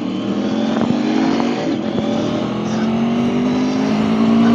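Aprilia Tuono V4 1100's V4 engine pulling under acceleration, its note climbing steadily in pitch and growing louder as it holds a gear, with wind rushing past.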